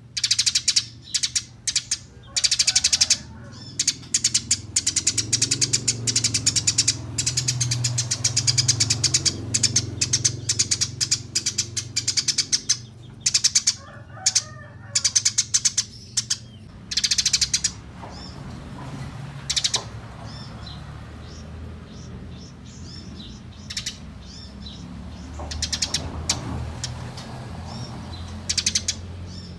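Eurasian tree sparrows chirping in fast, rolling runs of sharp chirps, the agitated calling of sparrows squaring off to fight. The chirping is dense for the first half and thins to scattered runs later, over a faint low hum.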